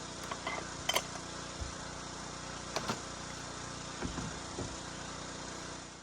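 A steady mechanical hum with a few short, light knocks and clicks scattered through it, cut off abruptly at the very end.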